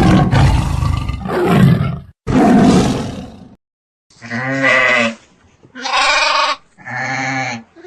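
Animal calls: two long, rough, noisy calls in the first half, then three shorter pitched calls, each starting and stopping abruptly.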